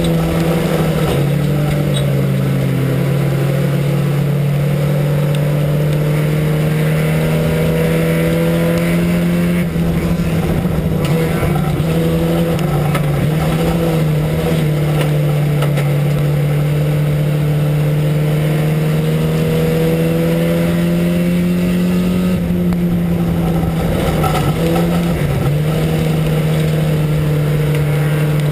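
Four-cylinder engine of an IMCA sport compact race car heard from inside the cockpit, running hard at high revs under racing load. The pitch climbs slowly and dips briefly a few times as the driver lifts off, then comes back on the throttle.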